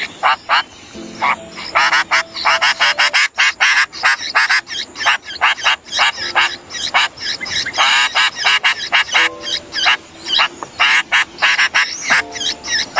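Sooty-headed bulbul nest calls: rapid harsh chirps in quick succession, with steadier low notes underneath about a second in and again near the end.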